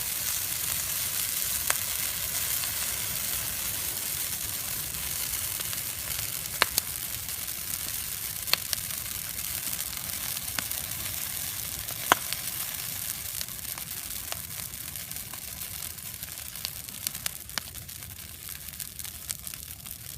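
Bonfire burning with a steady hiss and irregular sharp crackles and pops, a dozen or so scattered through.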